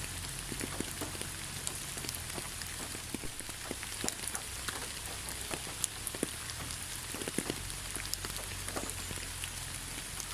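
Steady rain falling in a rainforest: an even hiss with many separate drops tapping irregularly on leaves and the ground.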